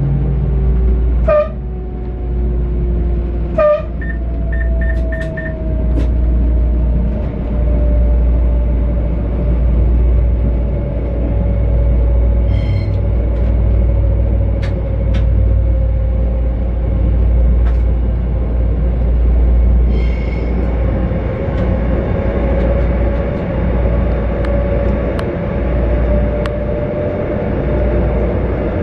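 Electric train running along the track, heard from the driver's cab: a steady low rumble with a motor whine that slowly drops in pitch, scattered clicks from the rails, and a short run of about five quick beeps around five seconds in.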